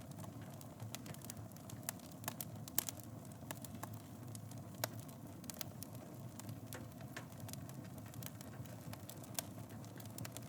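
Wood fire burning in a fireplace: a steady low rumble of flames with irregular sharp crackles and pops, thickest in the first few seconds, with single louder pops near the middle and near the end.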